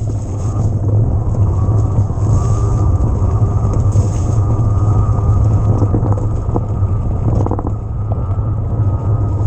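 Steady rumble of an electric mountain bike ridden off-road, with tyre and wind noise on the bike-mounted camera and scattered clicks and rattles from the bike.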